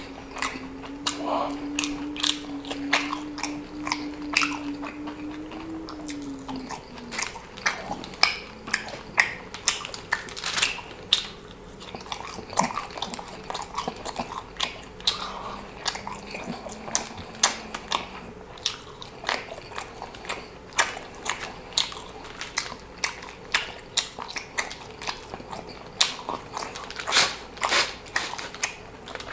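Close-miked eating: chewing with frequent wet mouth clicks and crunchy bites. A faint low hum runs underneath and drops in pitch about six seconds in.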